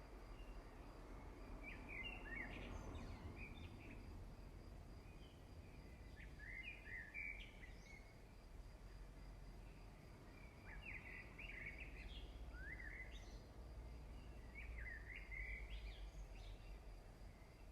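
Small birds chirping faintly in short clusters every two to three seconds, over a low steady background rumble.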